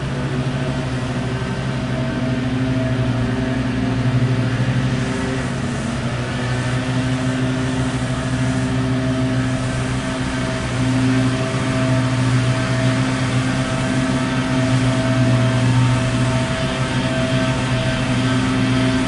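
A motor running steadily: a low hum with a few steady tones above it and a constant noisy wash, with no real change in pitch or level.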